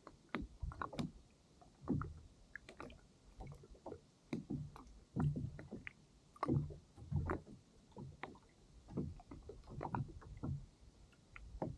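Water splashing and lapping against a kayak's hull in short, irregular surges, about one or two a second.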